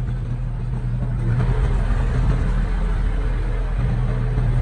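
Diesel engine of heavy earthmoving equipment running steadily, growing louder about a second in as it works harder.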